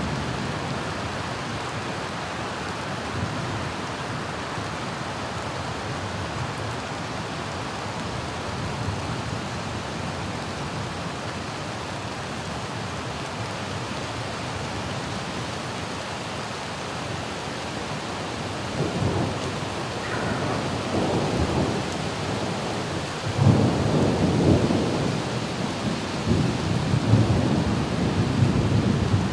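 Steady rain falling, then thunder rumbling in several rolling surges from about two-thirds of the way through, loudest near the end.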